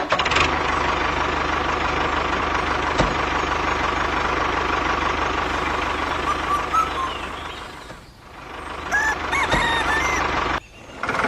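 A small engine running steadily with an even low knock, with chickens clucking and a rooster crowing over it. The sound dips about eight seconds in and cuts out briefly near the end.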